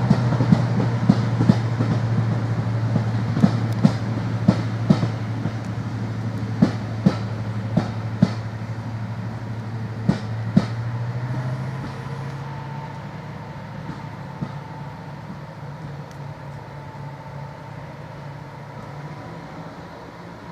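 Class 55 Deltic diesel locomotive pulling a train away, working on one of its Napier Deltic engines: a steady engine note, with wheels clicking irregularly over rail joints during the first ten seconds or so. About twelve seconds in the engine note drops, and the whole sound fades as the train draws away.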